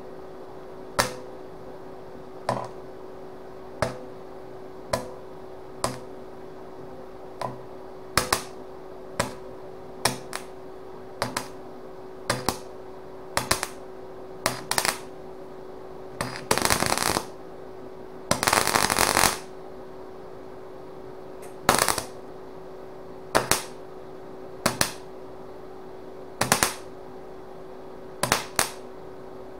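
Sharp metal taps about once a second, some in quick pairs, from a hammer striking a dented steel gas mask canister to straighten it. There are two longer scraping passes near the middle and a steady hum underneath.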